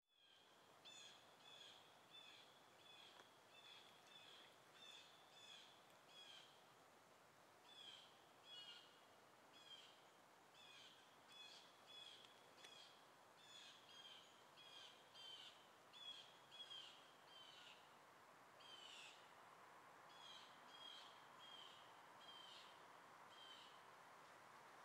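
A bird giving short, sharp, high calls over and over, about one or two a second, with brief pauses, over a faint steady background hiss.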